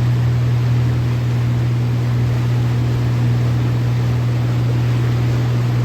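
Lobster boat's engine running at a steady drone over the continuous rush of tidal white water in the falls.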